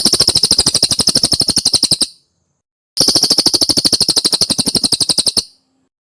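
Cililin bird song: two bouts of rapid, evenly repeated high chirps, about a dozen a second, each lasting a little over two seconds with a short break between.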